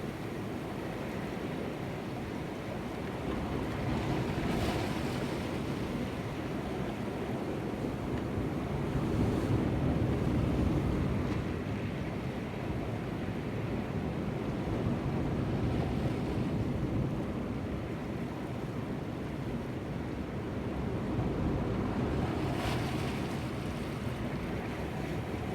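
Sea surf washing in, swelling and ebbing every few seconds, with two brief hissing washes, one about four seconds in and one near the end, and wind buffeting the microphone.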